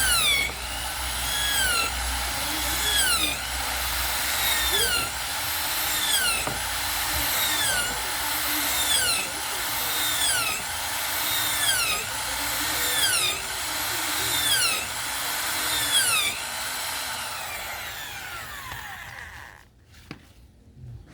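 An electric power tool running steadily, its pitch rising and falling in a regular cycle about once every second and a half. It cuts off about 19 seconds in.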